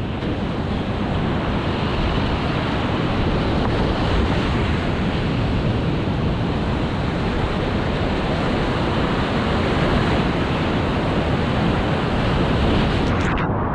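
Steady, loud rush of whitewater.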